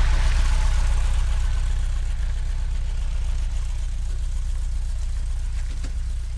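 Volkswagen Vanagon running on the road, a steady low rumble from inside the van, with a hiss that fades over the first couple of seconds.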